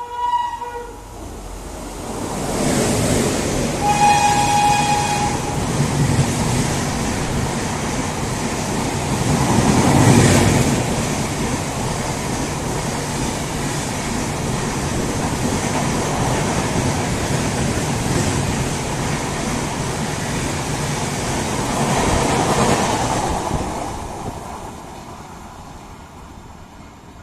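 Express train hauled by a WAP-7 electric locomotive passing at high speed. The end of a horn blast at the start and a short horn blast about four seconds in, then a long, loud rush of wheels and coaches on the rails, loudest around ten seconds in, fading away over the last few seconds.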